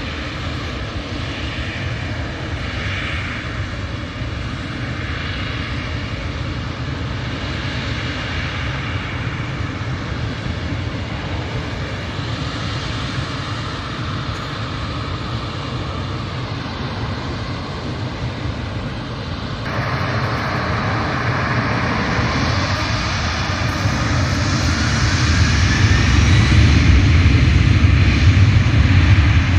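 Airliner engines running at an airport, a steady noise that grows louder over the last third. A whine rises steadily in pitch as the aircraft comes closer or its engines spool up.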